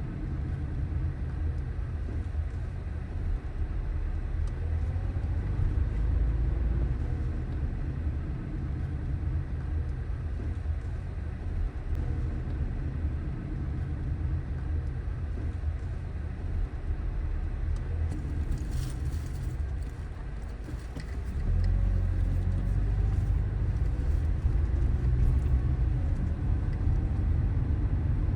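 Car driving on city streets: a steady low rumble of engine and road noise. It eases off briefly about two-thirds of the way through, then comes back louder.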